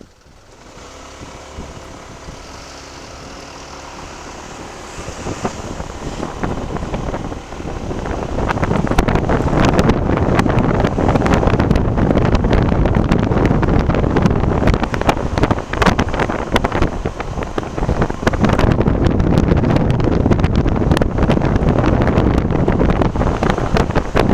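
Motorcycle running quietly at first, then pulling away. Wind buffets the bike-mounted camera's microphone, loud and gusty from about nine seconds in.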